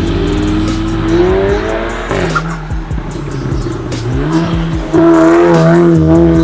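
Golf 7.5 R's turbocharged 2.0-litre four-cylinder through a straight-piped valved exhaust, revving up over the first two seconds. It drops off suddenly with a run of crackles, then pulls hard again from about five seconds in, loud and held.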